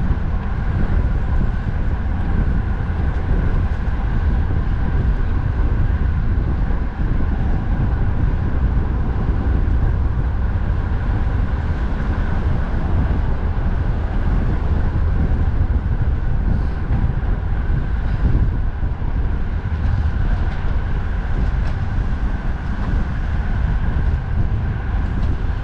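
Strong wind buffeting the microphone in a steady heavy rumble, over the constant noise of road traffic.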